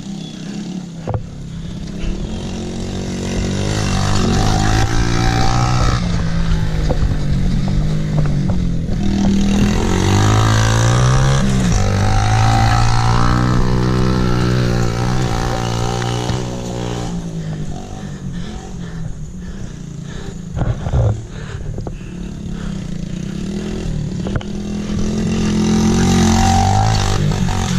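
Mini bike's small engine running as it is ridden, its pitch rising and falling as the throttle is opened and eased. It gets louder a few seconds in, stays loud for a long stretch, drops back, and builds again near the end.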